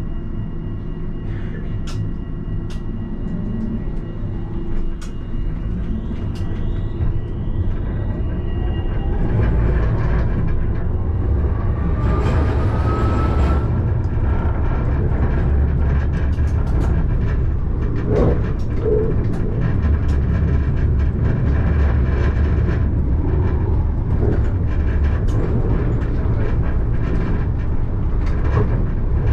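Alstom Citadis tram heard from the driver's cab, pulling away with a whine that rises in pitch as it gathers speed. It then runs on with a steady low wheel-on-rail rumble and scattered clicks over the track, with a short hiss about twelve seconds in.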